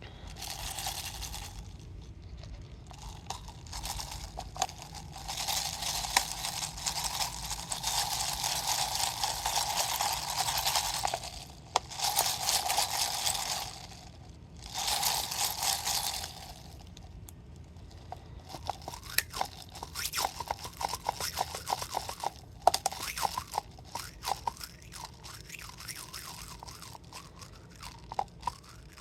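Crinkly, partly frozen plastic water bottle being handled: the plastic crackles while water and ice move inside it, in several long stretches through the first half. After that the sound breaks into a run of separate sharp crackles and clicks.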